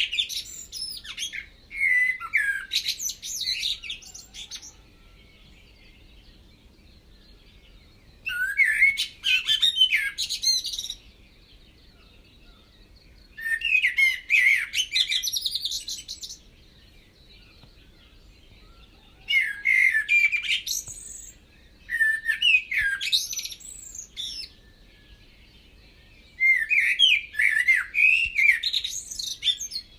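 A songbird singing in bouts of quick, varied phrases, each lasting two to three seconds, with pauses of a few seconds between them.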